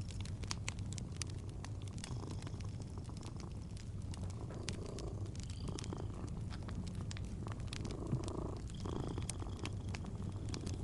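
Cat purring steadily, with a fireplace crackling in scattered sharp pops.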